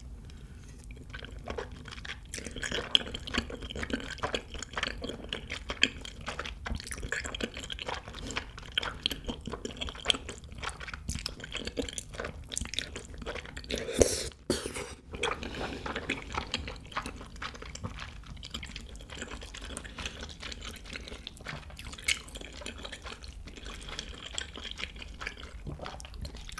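Close-miked wet chewing of rosé tteokbokki, soft chewy rice cakes in a creamy sauce, with a dense run of small sticky, smacking mouth clicks. A louder burst of mouth noise comes about 14 seconds in.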